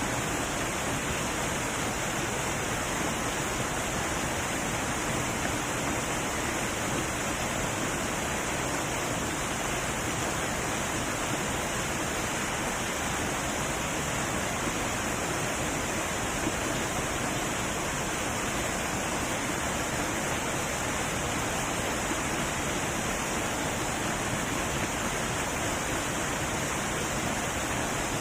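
Heavy waterfall rushing in a steady, unbroken roar of falling water.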